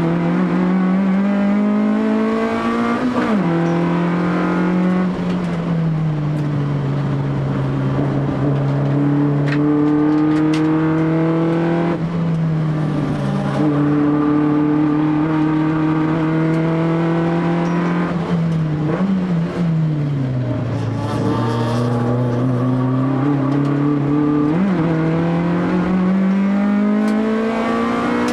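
Honda Civic EF3's carbureted ZC four-cylinder, on 44 mm Solex carburettors, running hard around a circuit. The engine note climbs slowly through long pulls and dips sharply with quick blips between them, about four times.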